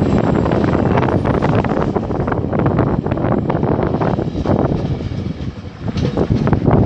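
Commuter train running by with a loud, steady rumble, and wind buffeting the microphone.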